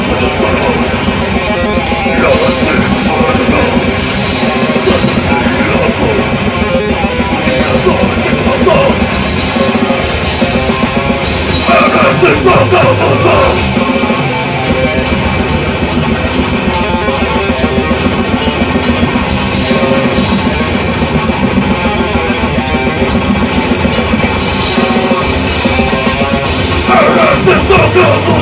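Loud heavy metal played by a band: distorted electric guitars over a driving drum kit, with wavering pitched lines about twelve seconds in and again near the end.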